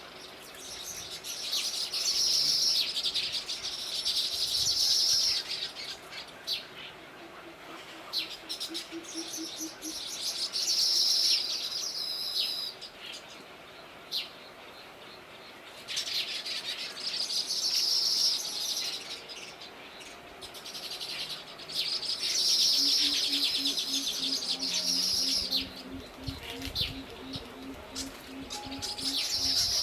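Small songbird calling in repeated bouts of fast, high-pitched chattering trills, each lasting a few seconds, with short quiet gaps between them.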